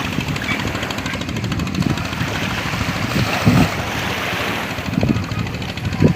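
Sea waves washing on a beach, with wind gusting on the microphone in a few low buffets.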